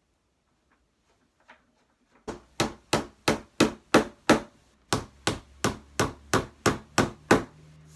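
Hammer blows, about three a second, in two runs of seven and eight strikes with a short pause between, after a few light taps. They drive the bifold door's pivot pin into a freshly drilled hole in the door's wooden end.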